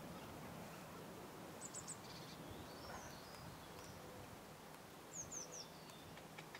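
Quiet outdoor ambience with faint songbird calls: a quick run of short high chirps about two seconds in, and a short falling three-note phrase about five seconds in.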